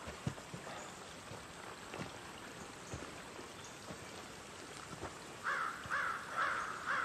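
Quiet woodland ambience with faint scattered ticks, then a bird calling four times in quick succession near the end with harsh, crow-like caws.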